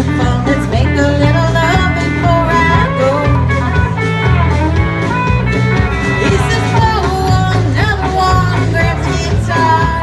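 Blues-rock music from a band: guitar with bending melody lines over a steady bass and drum beat.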